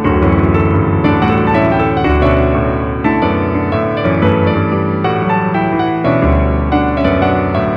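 Background piano music, notes changing steadily with sharp attacks.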